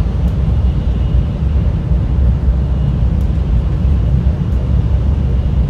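Cabin noise of an N700S Shinkansen running at speed, heard from inside the carriage: a steady low rumble with a fainter even hiss above it.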